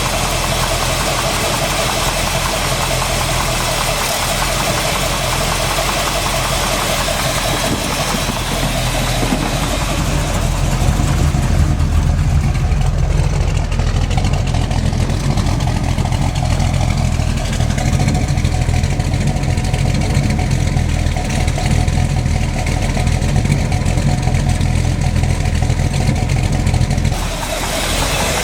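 Freshly built small-block Chevy 350 V8 running steadily, with a knock that the owner suspects is piston slap or a flexplate knock rather than rod knock, and an occasional tick he thinks comes from the carburettor. About ten seconds in the engine sound turns deeper and fuller, and it shifts again near the end.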